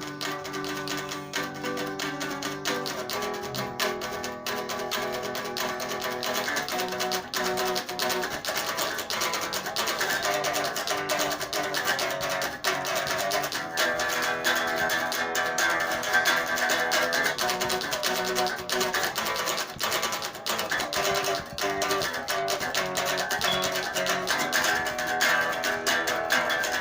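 Solo guitar, played unplugged, picking out an instrumental piece of ringing notes that grows fuller and busier partway through.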